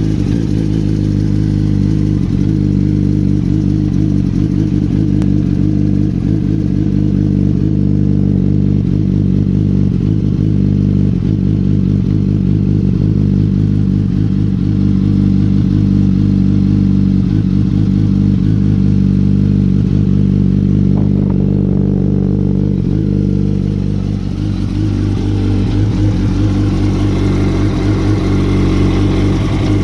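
Yamaha R1 inline-four motorcycle engine idling steadily through a Two Brothers aftermarket exhaust, its note shifting slightly near the end.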